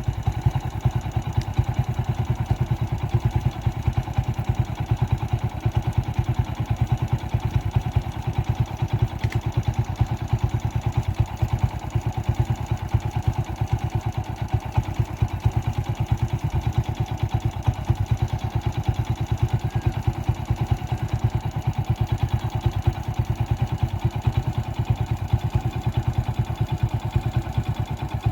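An engine running at a steady speed with a fast, even beat, unchanged throughout.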